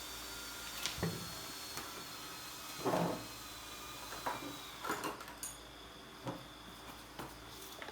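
Scattered light clicks and knocks of hard objects being handled, about a dozen over several seconds, the loudest a short clatter about three seconds in, over a faint steady hum.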